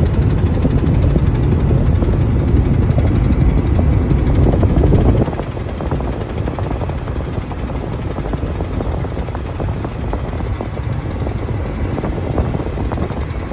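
Repeated tapping from the dashboard of a 2012 Volkswagen Passat at highway speed, over road and engine noise inside the cabin. The owner says the tapping shows up only around 75 mph, with or without the AC on. The low road rumble drops about five seconds in.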